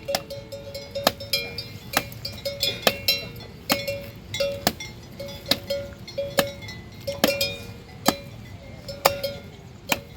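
A metal bell clanking over and over at an uneven pace, about once a second, each clank ringing briefly at the same pitch.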